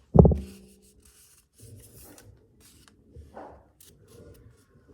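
A loud low knock just after the start, then trading cards and card packaging rubbing and sliding in the hands.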